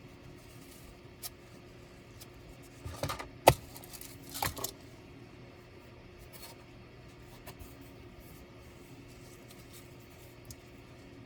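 A few sharp clicks and light clatters of small hard parts and tools being handled while a laptop is taken apart, the loudest click about three and a half seconds in, over a faint steady hum.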